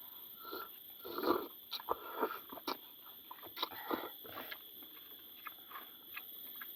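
Close-up eating sounds: irregular chewing and short clicks of a spoon against a dish.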